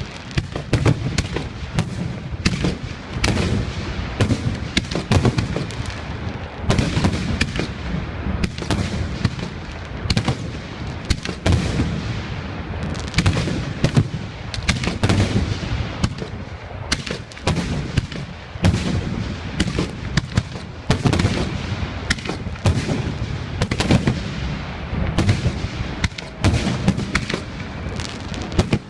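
Fireworks display: a dense, continuous barrage of shell bursts, several bangs a second, with low rumbling and echo between them.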